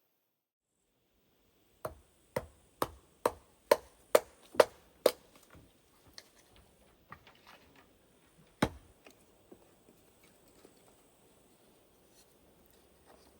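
Chopping on wood: eight quick, sharp strikes about two a second, then lighter knocks and one more hard strike partway through.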